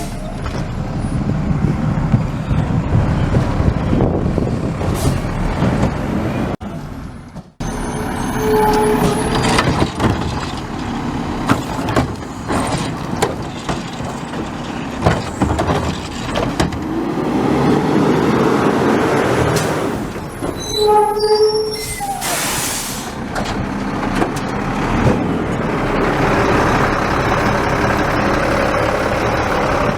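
Garbage truck at work: its engine runs with a steady rumble and clatter. There are a few short beeps, and about two-thirds of the way through comes a burst of air brake hiss.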